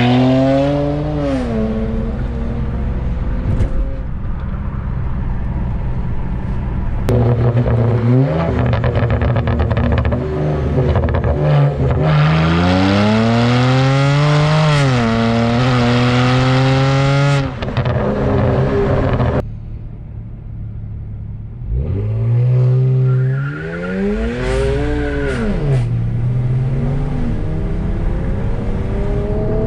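Tuned 2009 BMW 335i's twin-turbo inline-six, with a turbo-back exhaust, revving hard several times. Its note climbs and falls again and again, with one long climb in the middle and a quieter stretch about twenty seconds in.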